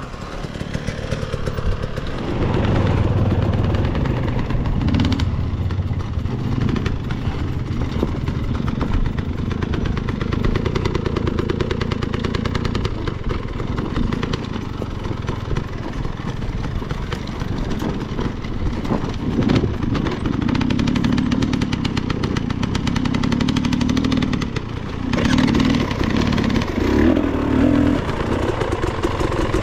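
Dirt bike engine running at low, varying revs, with clattering as the bike picks its way down a rocky trail. There is a brief dip in level about 25 seconds in.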